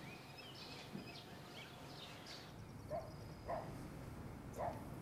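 Faint background ambience with a few short bird chirps, about three of them in the second half.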